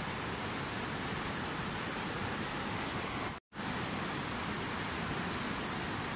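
Steady rushing water, an even hiss like a waterfall. It cuts out completely for a split second about three and a half seconds in, then resumes unchanged.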